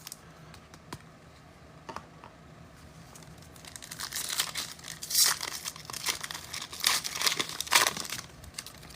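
A trading-card pack's foil wrapper being torn open and crinkled by hand. There are a few light ticks at first, then uneven crackling for about the last five seconds.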